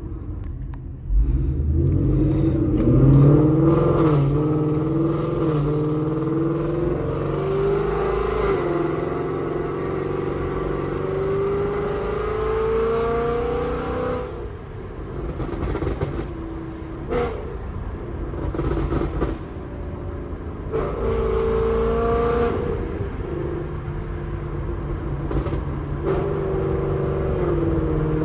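Ford Mustang GT's 5.0 V8, through long-tube headers and a Corsa Xtreme cat-back exhaust, opening up hard about a second in and revving up through the gears, its pitch climbing in steps. Around halfway it lifts off with short sharp pops and crackles, then pulls hard again twice near the end.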